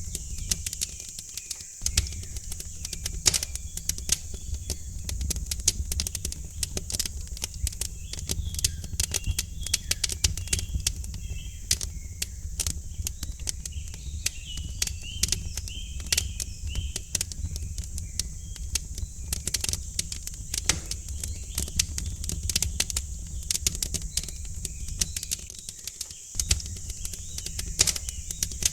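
Wood fire crackling in a fireplace: dense, irregular snaps and pops over a low steady rumble and hiss. Faint birds chirp in the background, mostly through the middle.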